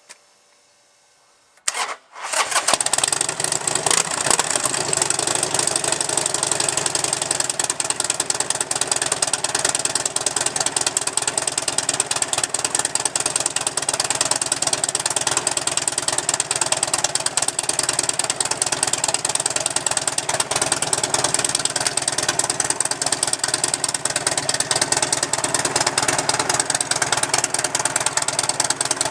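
2009 Buell XB12 SCG's 1200 cc V-twin with a home-made straight-pipe exhaust and no resonators: a short crank on the starter about two seconds in, then the engine catches and idles loud and steady.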